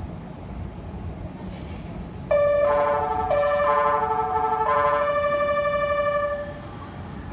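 A short electronic melody of held tones stepping between pitches starts suddenly about two seconds in and stops about four seconds later, over a low rumble of station background noise.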